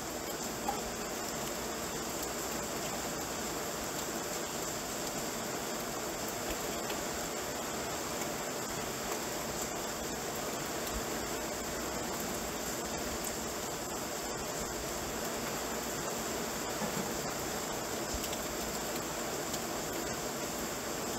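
Rain falling steadily: an even, unbroken hiss, with a faint tap about a second in.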